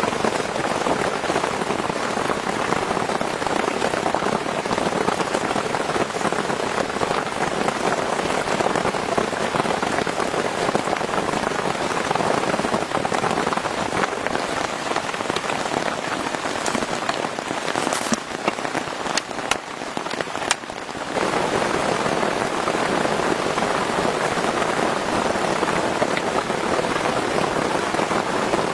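Heavy rain falling steadily in a dense, even hiss. About two-thirds of the way through it briefly drops in level, with a few sharp clicks, then comes back at full strength.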